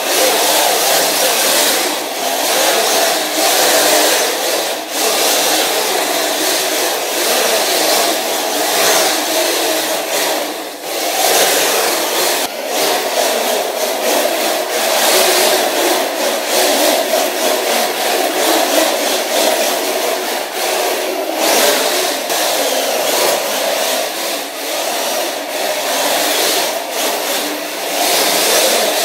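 RC drift car running on a basement track, its small motor whirring and its tyres sliding on the floor, rising and falling with throttle in swells every few seconds.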